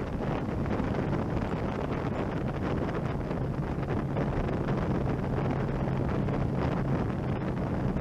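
Wind rushing over the microphone on a moving motorcycle, with the engine's steady low drone underneath.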